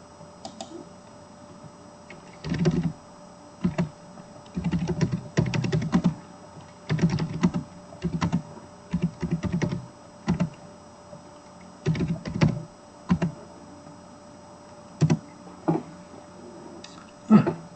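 Typing on a computer keyboard in short bursts of rapid key clicks, with pauses in between.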